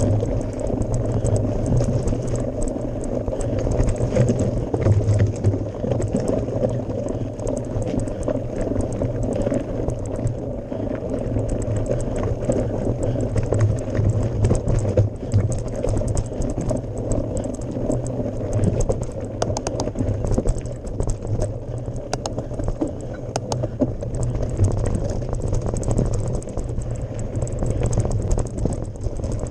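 Mountain bike climbing a gravel forest road: tyres crunching over gravel with many small clicks and rattles over a steady low rumble.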